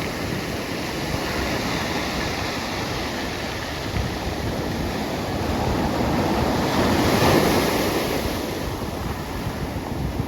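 Pacific Ocean surf breaking and washing on the shore, a steady wash that swells to its loudest around seven seconds in, with wind buffeting the microphone.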